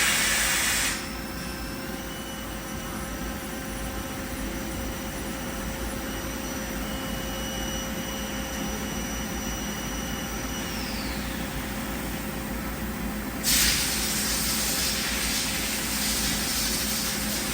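Yama Seiki GS-200Y CNC lathe's Y axis being jogged: a thin, high servo whine comes in about two seconds in, holds steady for some nine seconds, then glides down and stops as the axis comes to rest, over the machine's steady hum. A loud hiss sounds at the start and again from about three-quarters of the way through.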